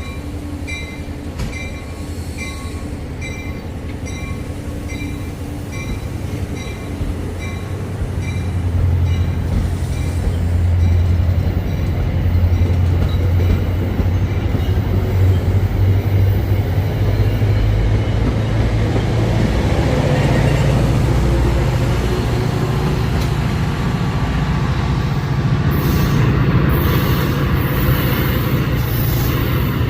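Passenger train at a station platform. A bell dings steadily about every half second at first, then the train's low rumble builds from about eight seconds in and stays loud, with a hissing, screeching edge near the end.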